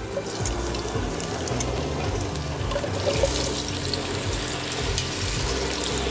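Taro cubes frying in hot cooking oil in an enamelled cast iron pot: a steady sizzle with many small crackles and pops, under soft background music.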